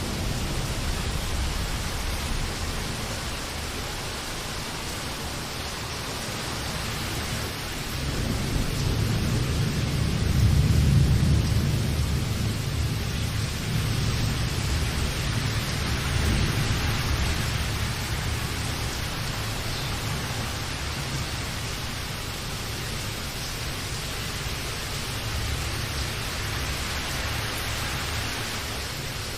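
Steady rain with a low rumble of thunder that builds about eight seconds in, is loudest a few seconds later, and fades away.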